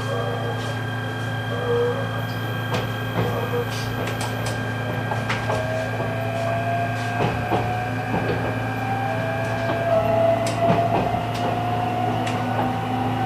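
E129 series electric train accelerating: the Toyo IGBT VVVF inverter and traction motors whine, rising slowly in pitch from about five seconds in as the train picks up speed. Under it runs a steady low hum, with scattered clicks and knocks from the car and the track.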